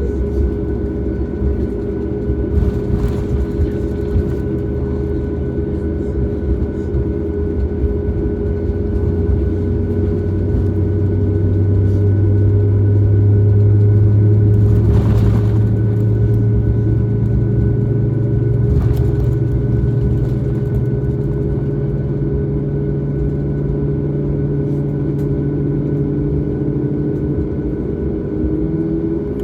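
Cabin noise inside a Boeing 737 MAX as it powers up for departure: a loud, steady rumble with the CFM LEAP-1B engines' low hum rising slowly in pitch, loudest about halfway through.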